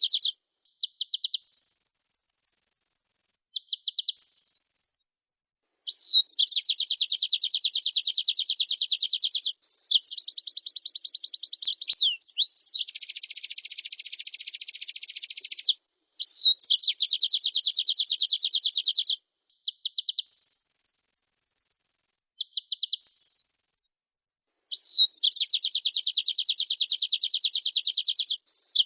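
White-eye (pleci) singing in full song: fast, high trills and chattering phrases of one to three seconds each, with short pauses between them and a few even higher, thinner bursts.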